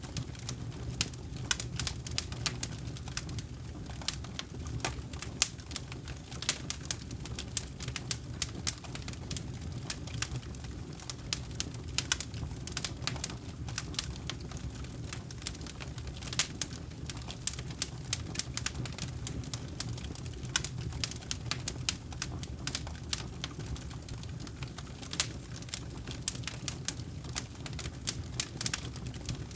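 Wood campfire burning, crackling with frequent irregular sharp snaps and pops over a steady low rumble.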